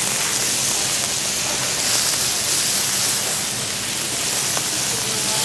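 Chopped peppers sizzling in oil in a wide paella pan on high heat, with a steady hiss while they are stirred with a spatula.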